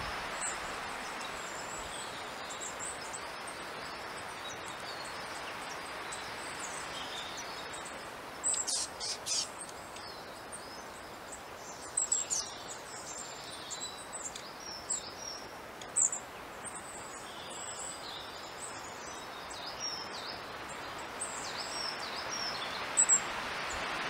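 Long-tailed tits calling: many short, high, thin notes, scattered and coming thicker from about a third of the way in, over a steady rushing background noise.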